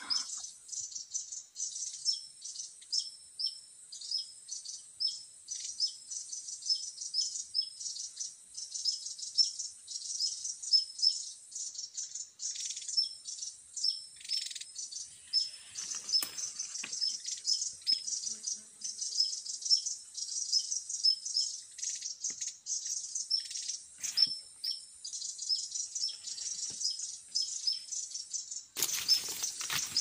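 Tesia calling: short, high chirps repeated evenly, about two a second, with a few brief pauses, over a steady high hiss. About a second before the end, loud rustling of leaves and branches.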